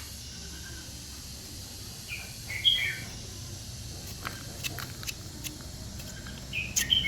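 Birds chirping in short calls, a cluster about two seconds in and another near the end, with a few sharp clicks in between over a steady low hum.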